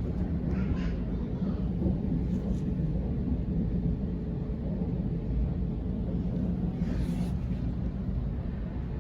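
Sydney Trains Waratah electric train running along the track: a steady low rumble with a faint steady hum above it.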